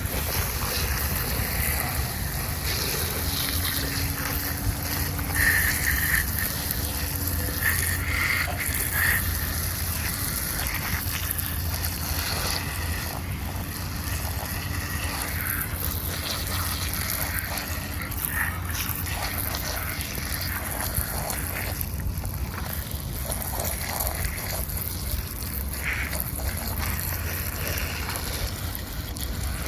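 Water trickling and splashing over a miniature model car as it is washed, over a steady low hum.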